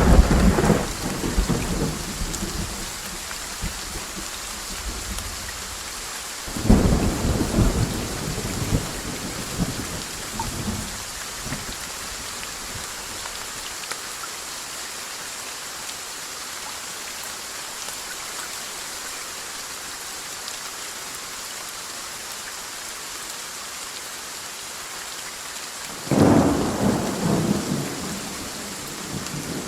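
Steady rain hissing, with three rolls of thunder rumbling over it: one at the start, one about seven seconds in, and one near the end.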